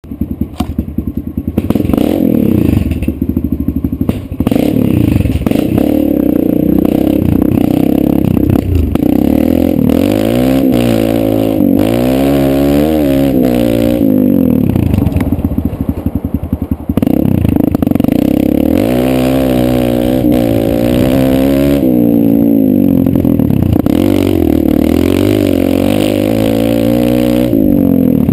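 Kawasaki KLX140 dirt bike's single-cylinder four-stroke engine being ridden, its pitch repeatedly climbing and dropping as the rider revs through the gears and rolls off the throttle.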